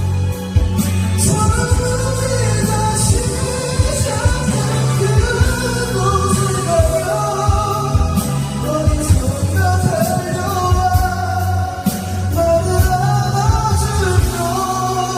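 A singer performing a Korean pop-rock ballad live over a karaoke backing track, with drums, bass and guitar, the vocal melody rising and holding long notes.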